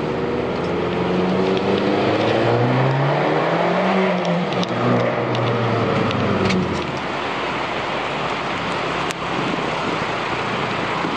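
Abarth 500's turbocharged 1.4-litre four-cylinder, through a Magneti Marelli Bombardone race exhaust, pulling hard with its note rising for a few seconds. About halfway through the note falls away, leaving a steadier rushing noise.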